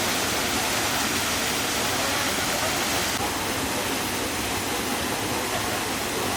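Waterfall rushing: a steady, even hiss of falling water that drops a little in level about three seconds in.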